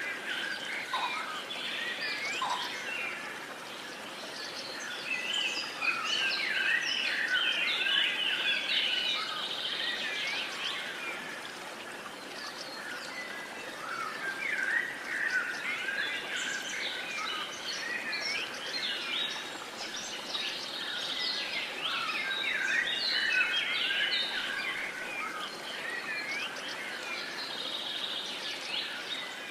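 Many birds singing and chirping together over a soft steady background hiss, the chorus swelling and thinning in waves.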